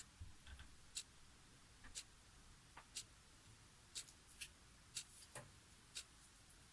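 Clock ticking, one faint, sharp tick a second, with a few softer clicks between the ticks.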